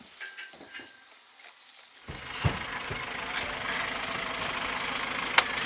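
A few light clicks and knocks, then about two seconds in a heavy machine's engine comes in, running steadily, with a thud soon after and sharp knocks near the end.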